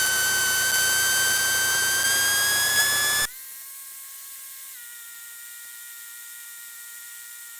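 Cessna 152's four-cylinder engine heard through the headset intercom as a steady high whine, rising slightly in pitch, that cuts off suddenly about three seconds in, leaving only a faint steady electrical whine.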